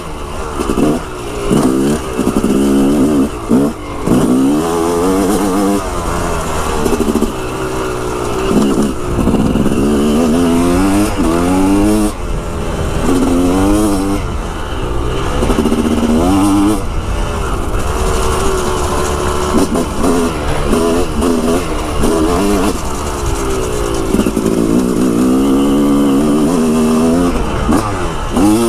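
Dirt bike engine being ridden hard, revving up and dropping back again and again as the throttle is opened and shut and the gears change.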